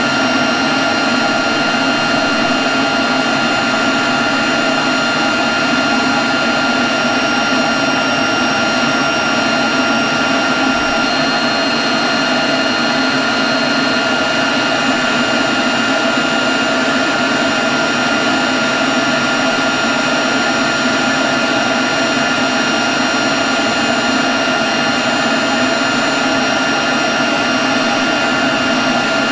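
Leaf blower running steadily at constant speed: a rush of air with a steady high whine over it.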